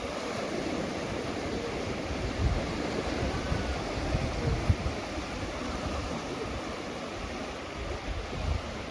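Gentle ocean waves washing steadily onto a beach, with wind gusting on the microphone as a low rumble a few times.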